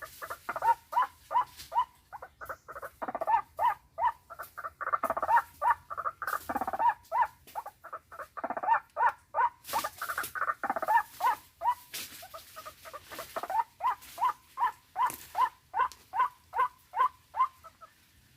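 White-breasted waterhen (ruak-ruak) calling: a long series of short, harsh notes repeated about two to three times a second. The calls crowd and overlap for several seconds in the middle, then run on singly and stop near the end.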